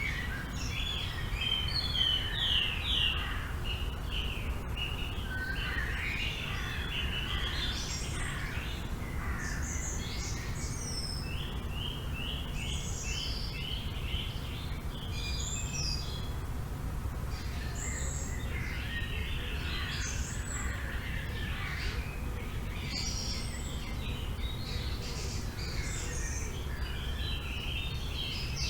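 Several songbirds chirping and trilling, overlapping calls throughout, over a steady low rumble of wind.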